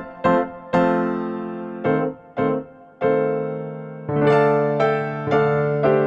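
Background music: electric piano playing chords, each struck and left to fade, several notes a second and then longer held chords.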